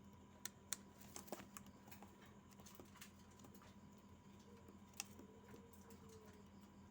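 Near silence over a steady electrical hum, broken by a few sharp clicks and taps: a cluster about half a second to a second and a half in, and one more about five seconds in.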